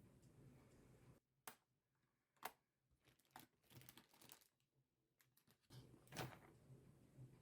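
Soft clicks and taps of makeup products and tools being handled, about half a dozen spread over several seconds, the loudest about six seconds in, over a faint room hum.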